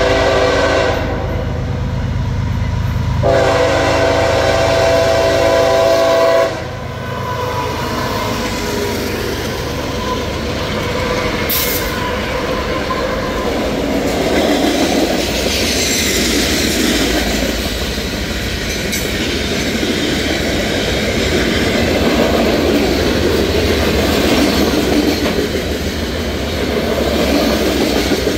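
Diesel freight train at a grade crossing: the lead locomotive's air horn sounds two long blasts for the crossing. Then the diesel locomotives pass close by with engine rumble, followed by loaded gravel hopper cars rolling past with steady wheel-on-rail noise and clatter.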